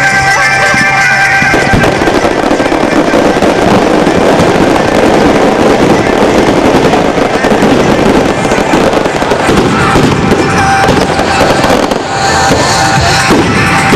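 A long string of firecrackers going off in a dense, rapid crackle for about ten seconds, over music that comes back through clearly near the end.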